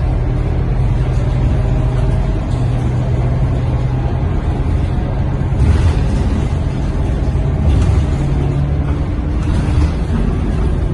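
Scania K230UB bus's five-cylinder diesel engine running steadily under way, heard from inside the passenger cabin. A few short knocks or rattles come about six, eight and nine and a half seconds in.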